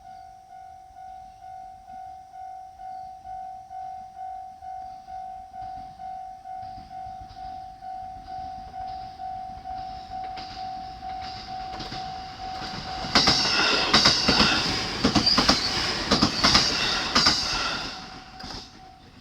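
Japanese railway level-crossing warning bell ringing in steady pulses, about two a second. About two-thirds of the way in, a JR Kyushu 787 series limited-express train passes loudly with rapid wheel clatter over the rail joints. The train noise dies away near the end while the crossing bell keeps ringing.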